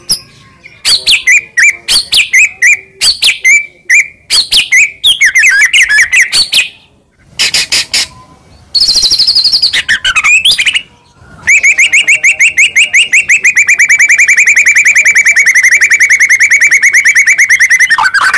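A white-rumped shama (murai batu) singing loudly. The first half is a run of quick, varied whistled phrases; from about midway comes a long, fast trill of rapidly repeated notes lasting about seven seconds.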